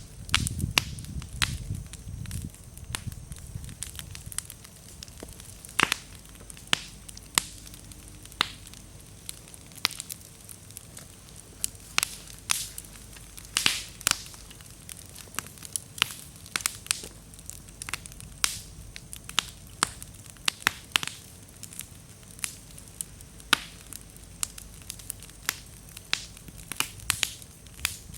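Wood fire crackling, with frequent sharp pops and snaps as damp firewood bursts and throws sparks. A low rumble of the flames sits under the pops in the first couple of seconds.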